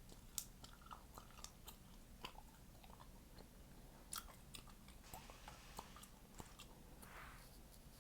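Chewing gum: faint, irregular wet clicks and smacks of the mouth, a few a second, with a soft breathy hiss near the end.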